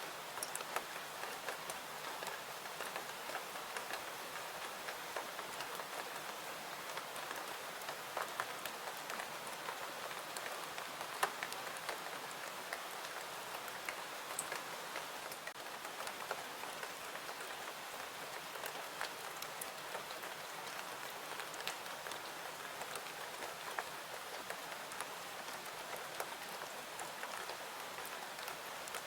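Steady rain ambience mixed with a crackling wood fire, with sharp pops scattered irregularly through an even hiss of rainfall.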